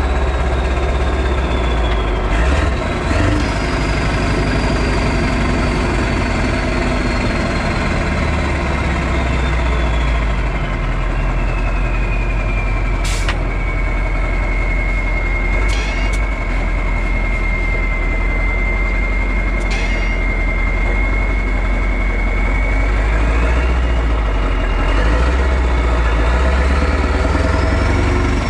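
Straight-piped V8 diesel truck engine running with a deep, steady rumble. A high whistle over it slides slowly down in pitch, holds, then climbs again near the end, with a few short sharp hisses or clicks in between.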